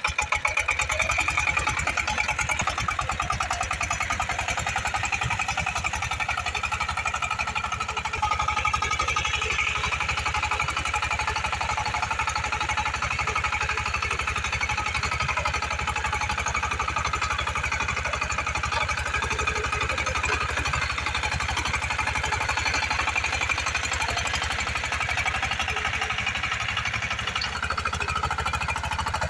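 A 25 HP power tiller's diesel engine running steadily just after starting, with an even, rapid firing beat; it gets slightly louder about eight seconds in.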